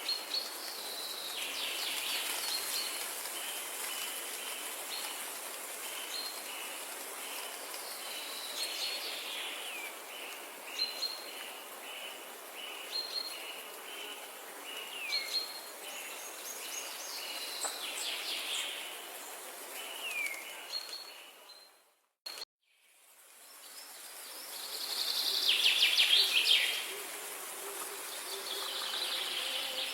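Several birds chirping and calling over a steady noisy background, with one short note repeated over and over and some quick falling whistles. About two-thirds of the way through, the sound fades out briefly, then returns with a louder flurry of chirping.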